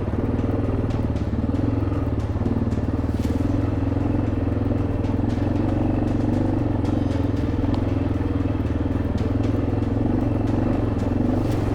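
Single-cylinder engine of a 1987 Yamaha Ténéré motorcycle running at a steady, even pitch while being ridden, with scattered light clicks over it.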